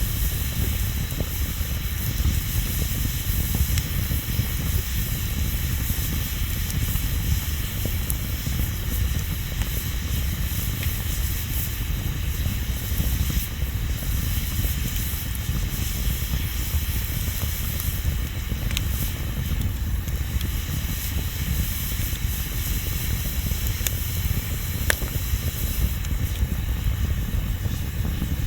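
Wood bonfire burning: a steady hiss over a low rumble, with a few sharp crackles scattered through it.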